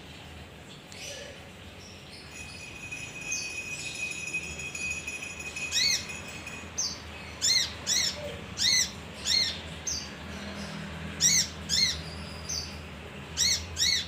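Male kinoi songbird calling. A long, faint, steady whistled note comes first, then from about six seconds in a run of loud, sharp, rising chirps, about one or two a second, over a low steady hum.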